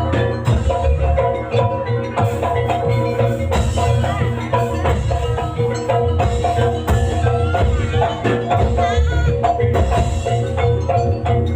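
Live jaranan Banyuwangi music from a gamelan-style ensemble: struck metallophones and percussion ringing over drums and a steady low pulse, with a wavering melody line in the middle.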